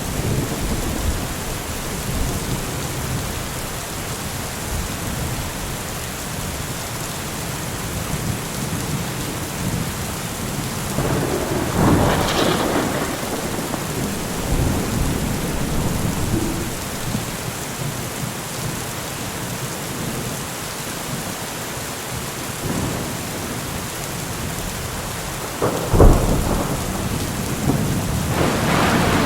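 Steady rain falling, with thunder: a rumble swells about 12 seconds in, a sharp crack comes about 26 seconds in, and another rumble builds near the end.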